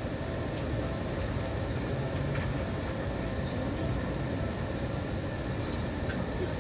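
Seibu 4000 series train standing at a station platform with its doors open: a steady hum and rush from the stationary train, with a few faint clicks.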